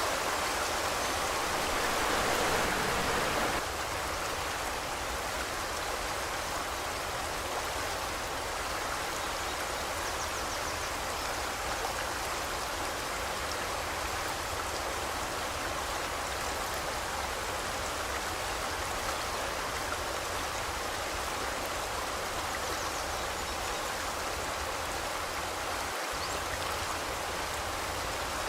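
Forest river stream flowing: a steady rushing of water, a little louder for the first few seconds, then dropping slightly and running on evenly.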